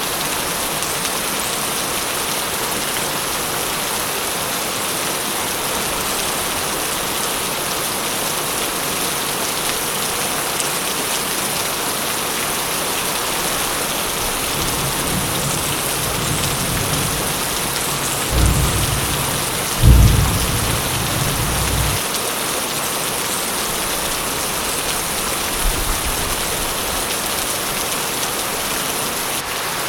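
Steady heavy rain, with a roll of thunder that builds about halfway through, peaks twice in sharp claps, and dies away by about three-quarters through.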